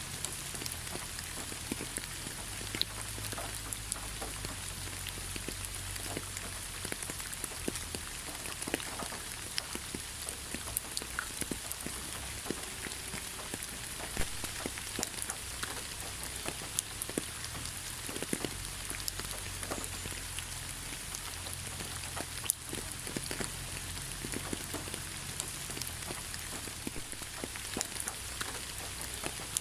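Steady rainfall: an even hiss of rain with many separate drops ticking sharply close by, scattered irregularly throughout.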